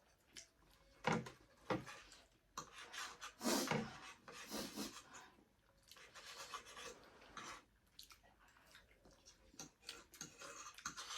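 Close-up eating sounds of instant noodles and momo being eaten: irregular bursts of chewing and mouth noise with small clicks.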